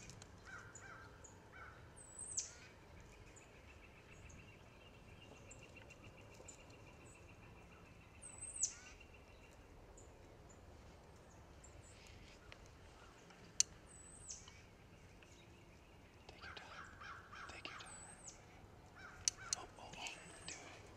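Wild birds calling: a sharp, high call sliding down in pitch, heard about five times several seconds apart, with a rattling trill a few seconds in and softer chattering calls near the end.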